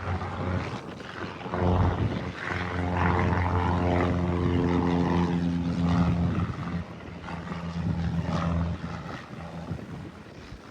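Single-engine propeller airplane passing close by. The steady engine and propeller drone swells in about a second and a half in and fades away near the end, over wind noise on the microphone.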